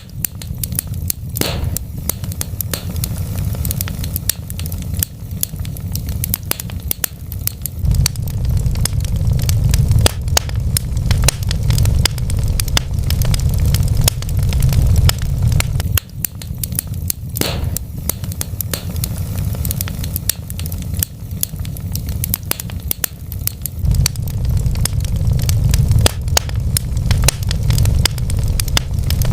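Wood fire burning in a fireplace: a steady low rumble of flames under constant crackling of the logs, with two sharper pops, about a second in and again past the middle.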